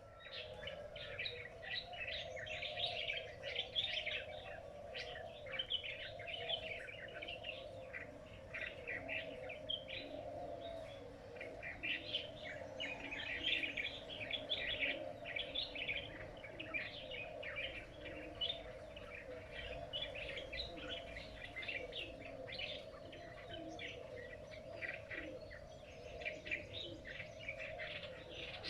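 Many small birds chirping and twittering continuously in dense, overlapping short calls, over a steady low hum.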